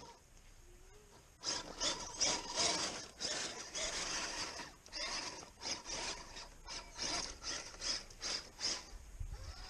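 Repeated rustling, scraping strokes, two or three a second, starting about a second and a half in.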